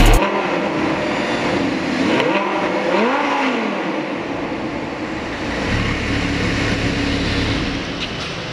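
Lamborghini Gallardo's V10 running in a concrete parking garage, with the revs climbing and dropping back a couple of times around two to three seconds in.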